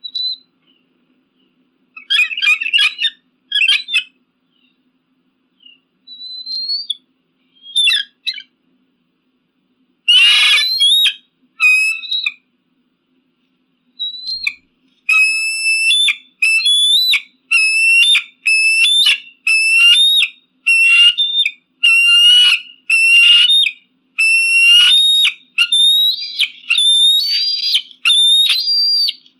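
Eagle giving shrill, high-pitched calls: scattered short bursts with silent gaps, a harsher squeal about ten seconds in, then a steady run of repeated calls about two a second.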